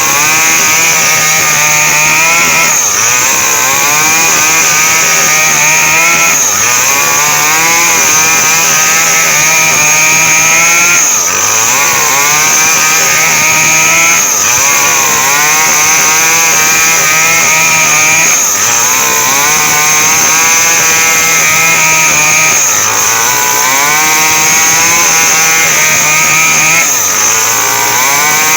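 Small Stihl two-stroke chainsaw running at high revs while cutting a coconut palm trunk. Its engine pitch dips and climbs back every four seconds or so.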